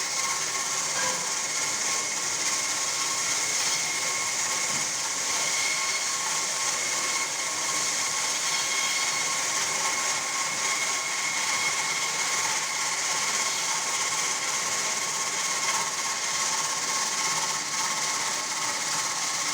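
Diamond wire saw running steadily as its wire cuts through concrete, a constant whine over a hiss with no change in pace.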